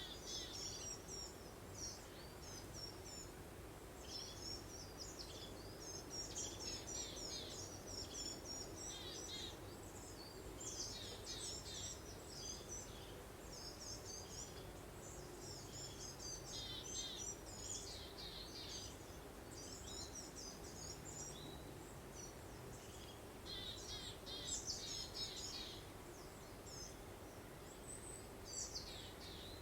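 Small songbirds chirping and twittering in quick high clusters throughout, over a steady soft hiss of breeze.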